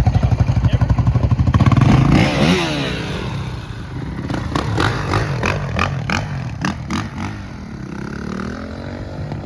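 A loud vehicle engine with a pulsing exhaust runs close by, then fades with a falling pitch about two seconds in. Several sharp clicks and knocks follow, and another engine revs up faintly near the end.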